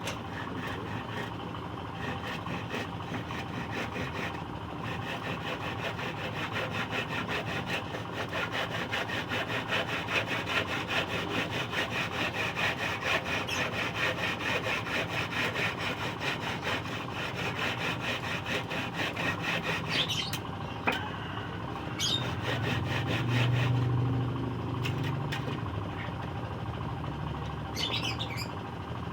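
Hand saw cutting scrap wood in steady back-and-forth strokes, fading out about twenty seconds in. A few short bird chirps follow, and a low engine hum rises and fades near the end.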